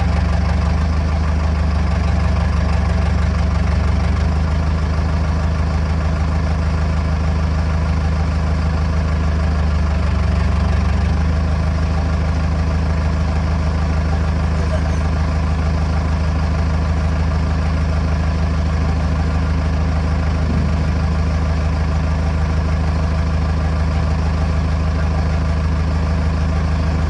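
Backhoe loader's diesel engine idling, loud and steady, with its pitch shifting slightly a couple of times.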